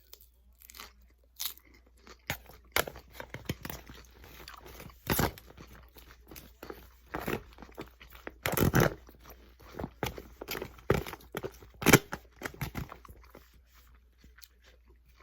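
A person eating close to the microphone: irregular crunchy bites and chewing, with the loudest crunches around the middle, tapering off near the end.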